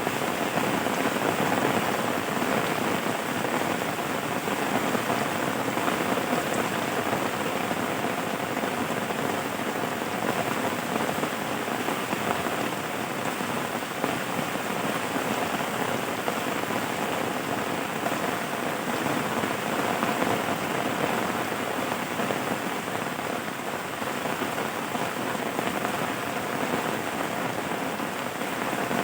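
Steady rain falling on a surface, an even patter of many drops with no breaks or distinct events.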